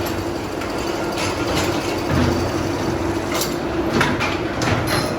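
Tyre-factory machinery running with a steady hum and scattered metallic clicks and knocks.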